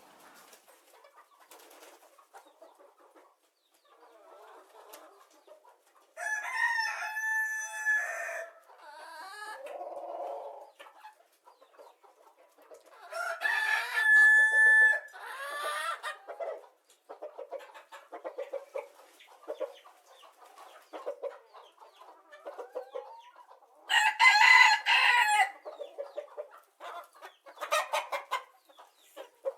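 Rooster crowing three times, each crow about two seconds long, with softer clucking between the crows.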